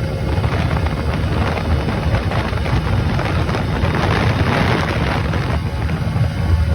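Yamaha YBR-Z 125's single-cylinder four-stroke engine running hard at a steady pitch, ridden flat out, with wind buffeting the microphone.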